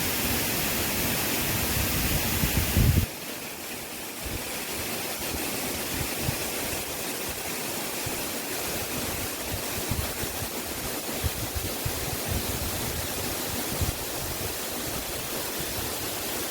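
Steady rushing of a waterfall. About three seconds in it drops suddenly to a quieter, thinner rush, with uneven low rumbles underneath.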